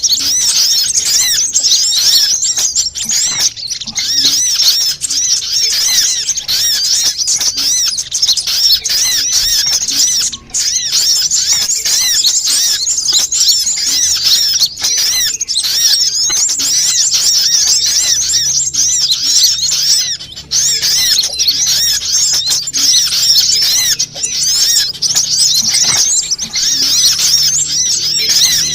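Sunbirds chirping and twittering in a dense, rapid, high-pitched stream with hardly a break. It is a lure recording played to draw wild sunbirds in.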